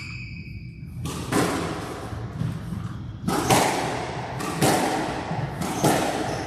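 Squash rally: the ball being struck by rackets and smacking the court walls, a sharp echoing hit roughly every second and a quarter.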